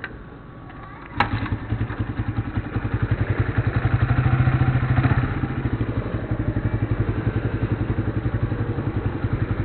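Yamaha Vixion single-cylinder four-stroke motorcycle engine, converted to a carburettor, starting about a second in and catching at once. It then idles with a fast, even pulse, rising briefly around the middle before settling.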